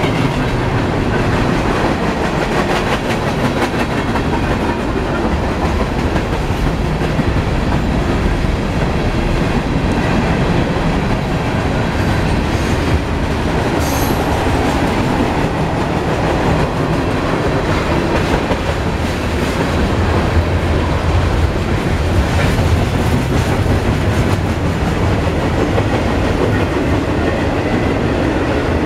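Union Pacific mixed freight train's cars rolling past at close range, a steady rumble with the wheels clicking over the rails. A short, high-pitched wheel squeal comes about halfway through.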